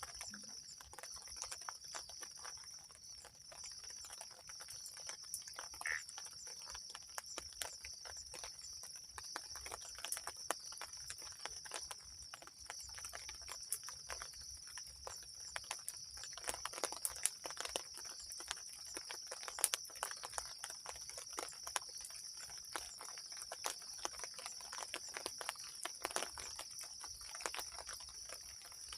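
Steady high-pitched chorus of insects, with many irregular small taps and clicks scattered throughout.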